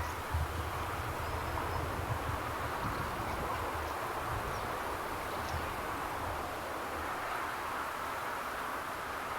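Steady outdoor background hiss with a fluttering low rumble of wind on the microphone, and a few faint, short, high bird chirps.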